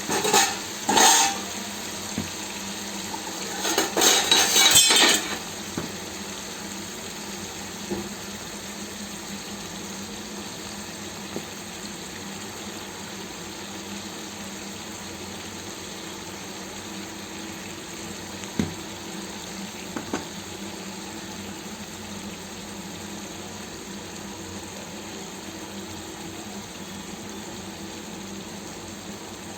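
Spoon clattering against a metal pot in two short bursts near the start as chilli powder and salt go into the partly cooked chicken curry. After that the pot keeps up a steady sizzling hiss, with an odd faint tick.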